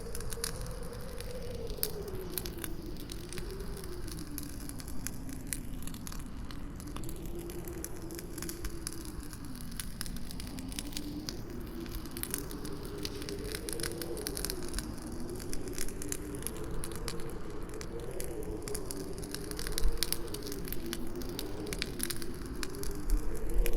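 Campfire crackling with many sharp pops, under a howling wind whose pitch slowly wavers up and down. A couple of louder pops come near the end.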